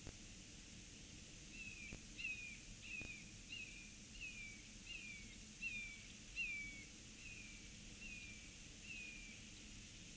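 Bald eagle calling: a series of about eleven high, thin, downward-slurred piping notes, a little under one a second, tapering off toward the end, over a faint steady hiss.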